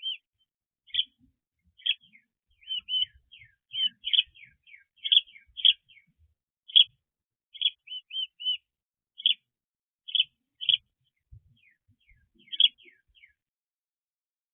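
Small birds chirping: an irregular string of short, high chirps and quick falling notes, some coming in rapid runs, that stops shortly before the end.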